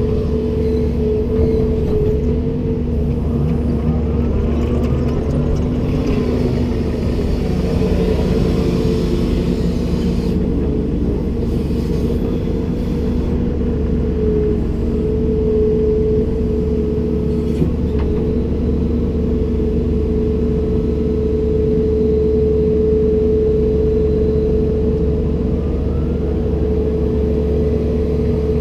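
Komatsu PC290-10 excavator's diesel engine running with a steady drone. From about six to ten seconds in there is a stretch of higher sliding whine and hiss, and a single light click comes a little past halfway.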